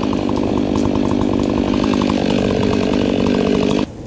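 Chainsaw engine running at a steady high speed, cutting off abruptly near the end.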